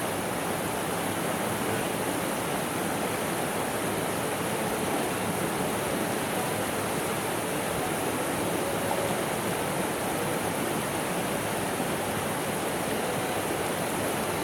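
River water rushing in a steady, even noise that does not change.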